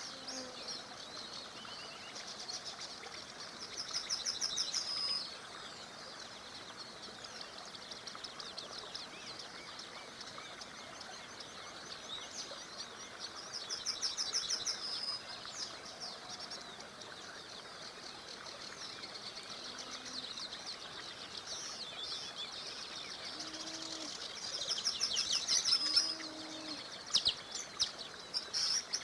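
Songbirds singing over the steady rush of a small river; one bird repeats a loud, rapid trilling song about every ten seconds, with other birds chirping between.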